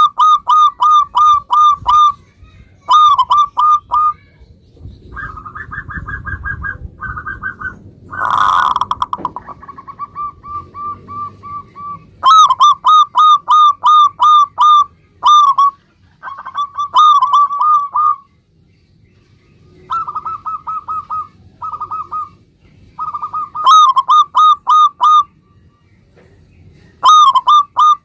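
Zebra doves (perkutut) cooing in rapid staccato runs of short notes, phrase after phrase with short pauses, some runs higher-pitched and flatter than others. About eight seconds in a brief, harsher, noisier sound cuts across the cooing.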